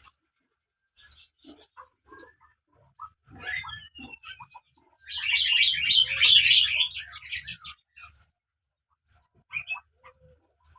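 Cinereous tit calls at the nest: scattered short chirps, then a loud burst of rapid chattering calls about five seconds in, tapering back to sparse chirps.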